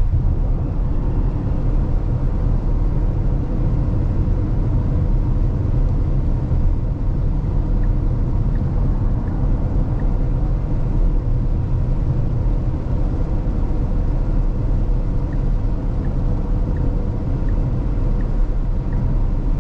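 Steady low road and tyre rumble heard inside the cabin of a 2022 Tesla Model X driving on a wet road, with no engine note. From about eight seconds in, faint regular ticking of the turn signal, roughly one tick every 0.7 seconds.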